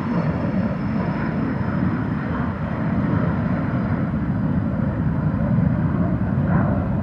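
General aviation aircraft at takeoff power, a steady engine rumble with a faint high whine drifting slowly down, growing a little louder about three seconds in.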